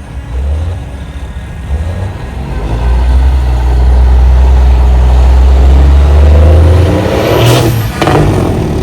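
Semi-truck diesel engines rumbling as big rigs roll past in a convoy. A deep, steady drone swells to its loudest through the middle, and near the end there are two brief loud rushes as trucks pass close.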